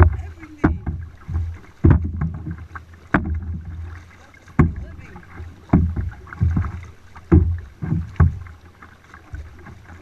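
Kayak paddling: sharp paddle strokes and knocks, each followed by a low rumble, repeating irregularly about once a second.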